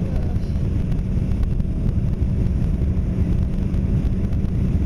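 Wind buffeting the microphone on a moving motorcycle in a steady low rumble, with the Suzuki GSX-R600's engine running underneath.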